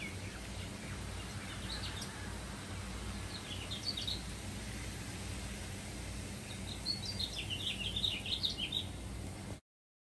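Birds chirping in short bursts of quick high notes over a steady low background rumble, with a busy run of chirps near the end; the sound then cuts off suddenly.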